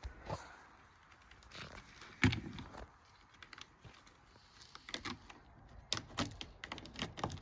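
Irregular small clicks and knocks from Christmas light strings and hooks being handled and fastened. The clicks come sparsely at first, then in a quicker run of several from about five seconds in.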